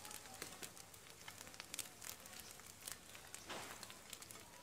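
Egg and bread frying in desi ghee on an iron tawa: faint sizzling with many fine crackles.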